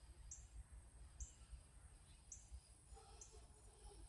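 Faint outdoor ambience near a creek: a short high chirp repeats about once a second over a thin, steady high hum and a low rumble.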